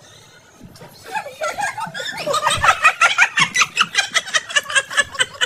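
Laughter, starting softly about a second in and breaking into a fast run of short bursts, about five or six a second, from about two seconds in.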